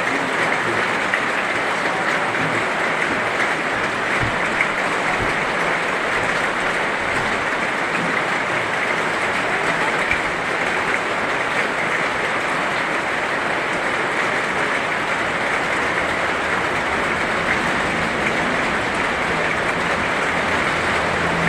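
Heavy rain falling steadily: a dense, even hiss with occasional sharp drop taps.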